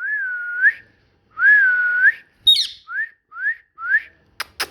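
Whistling: two long whistles that dip and then rise at the end, followed by a sharp high chirp and three short upward-sliding whistles.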